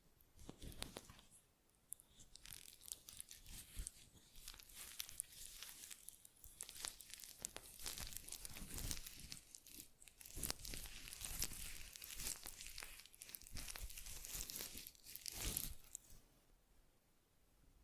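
Close-miked crinkling and crackling from ASMR facial-care handling, a dense run of small irregular crackles that swells and fades, dipping briefly about two seconds in and quietening near the end.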